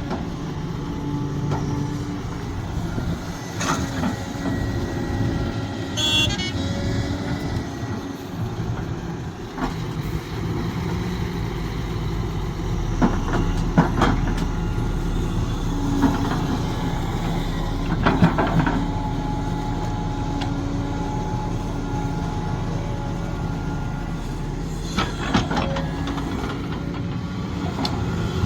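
Sumitomo SH370LHD-6 hydraulic excavator's diesel engine running steadily, with scattered metallic clanks and knocks, the sharpest about 13 to 14 and 18 seconds in.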